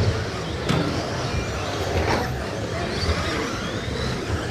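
Radio-controlled stock-class trucks racing: a steady wash of motor and tyre noise with faint rising and falling motor whines, and a few sharp knocks, about a second in and again about two seconds in.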